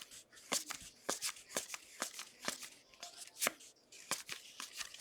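2022 Panini Contenders football trading cards being flipped and slid through the hands one after another while sorted, as a quick, irregular run of soft cardboard clicks and snaps.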